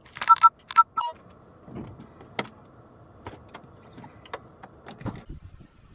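Car interior noise: in the first second, several loud knocks mixed with short two-tone electronic beeps, then a steady low rumble with scattered clicks that cuts off abruptly near the end.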